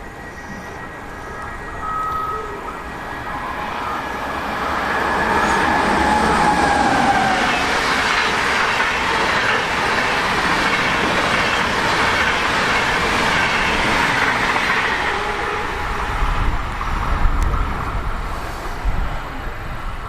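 A train passing on the line. Its rumble builds up over the first few seconds, stays loud through the middle and eases off near the end, with a faint whine riding on top.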